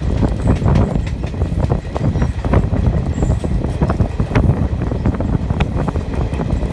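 Passenger train running over a river bridge: a loud, continuous wheel-and-rail rumble with rapid, irregular clicks and clatter.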